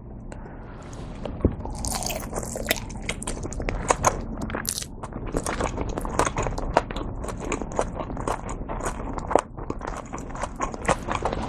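Close-miked chewing of a mouthful of steamed meat-filled dumpling: wet, smacking clicks and squishes at an irregular pace, starting about a second in.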